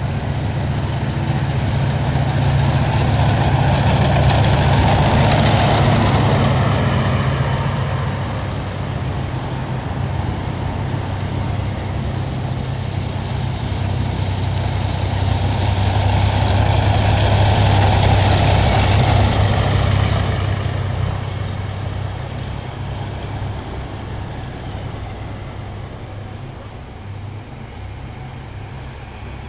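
Heavy military vehicles driving past one after another, their engines making a deep drone. The sound swells as one vehicle passes about five seconds in, and again as a second passes around eighteen seconds in, then fades away.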